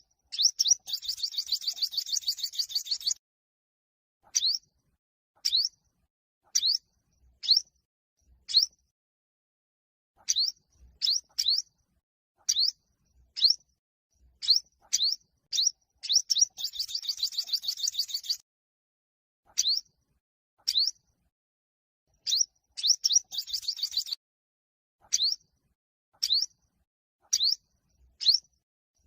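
Yellow-bellied sunbird singing competitively: short, high, rising chirps about once a second, broken three times by a rapid high trill lasting one to three seconds, near the start, past the middle and again a few seconds later.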